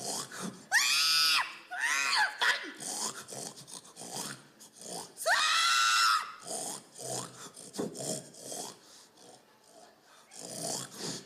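A person's hog call: loud, drawn-out pitched calls that rise and fall in pitch, with the longest near the middle, and short pig-like grunts between them.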